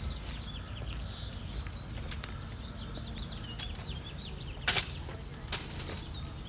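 Small birds chirping, many quick high chirps overlapping, over a low steady rumble. Two sharp clicks a little under a second apart stand out past the middle.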